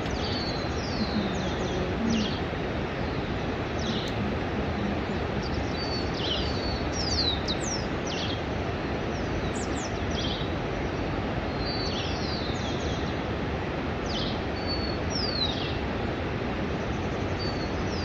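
Birds chirping over and over in short, sharp high notes over a steady rushing background noise.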